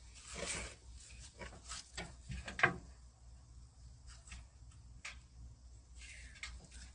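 A removed steel car door being dragged across the floor: a scrape, then a run of knocks and bumps with the sharpest one about two and a half seconds in, a few faint clicks, and a short scrape near the end.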